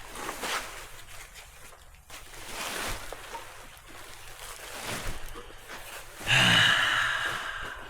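Packing paper and bubble wrap rustling in several separate swells as a fender is handled and turned, with a louder burst of noise lasting about a second near the end.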